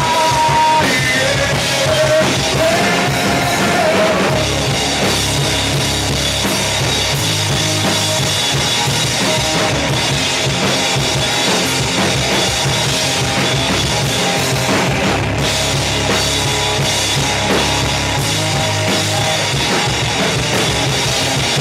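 Rock band playing an instrumental passage with drum kit and guitars, between sung verses. A held melodic line stands out over the first few seconds.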